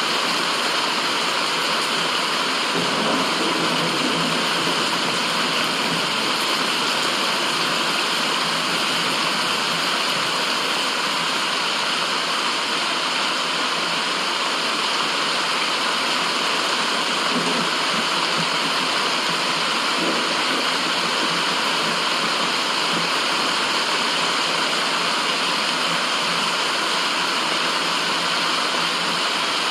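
Steady, even rushing white noise with the sound of falling water, most of it in the middle and upper range, unchanging throughout.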